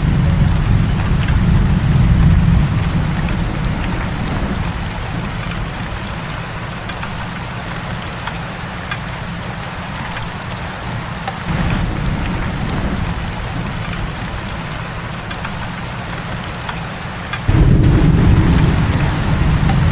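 Heavy rain pouring in a steady hiss, with a deep low rumble under it. The rumble is strong at first, fades away after a few seconds, and comes back suddenly near the end.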